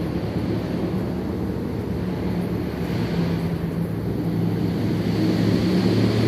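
Steady low rumble of road traffic, with a continuous engine drone.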